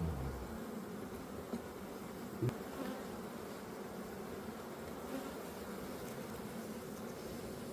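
Honey bees buzzing in a steady hum from an open hive colony, with a soft low thump at the start and a small knock about two and a half seconds in from frames being handled. The beekeeper hears the colony as a little noisier than normal and takes it as a reason to check on the queen.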